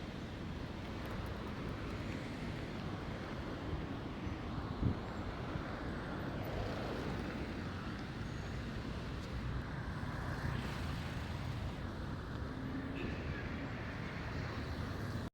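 Street traffic noise: a steady wash of passing road vehicles, with one brief knock about five seconds in.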